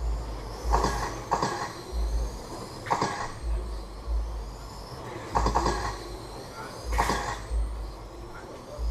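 Electric RC rubber-tire trucks racing around the track, their motors whining as they pass, with repeated sharp clatters every second or so.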